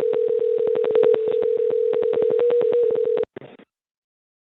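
A steady telephone-line tone heard over a phone connection, with rapid clicking on the line at about ten clicks a second; it cuts off about three seconds in, followed by a brief crackle and then silence.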